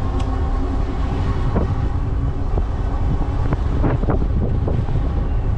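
Strong headwind buffeting the action camera's microphone while riding an e-bike, a constant low rumbling roar. A steady hum fades out in the first second or two, and a few short knocks come in the second half.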